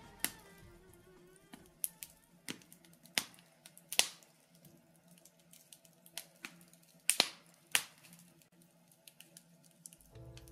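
Wood fire crackling in a fireplace: irregular sharp pops and snaps, the loudest about four seconds in and a cluster about seven seconds in.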